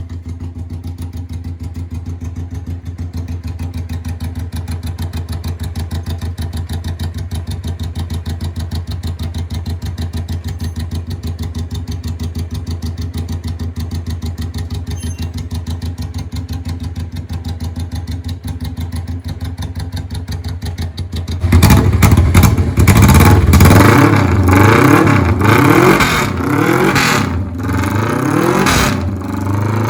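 Suzuki GS400's parallel-twin engine idling steadily, then, about two-thirds of the way through, revved hard in a series of quick throttle blips that rise and fall in pitch.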